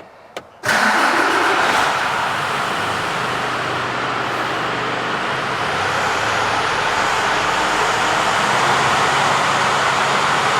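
Mercedes-Benz Actros 2545 tractor unit's Euro 6 six-cylinder diesel engine starting. Two faint clicks, then the engine fires a little under a second in, runs loudest for about a second, and settles into a steady idle.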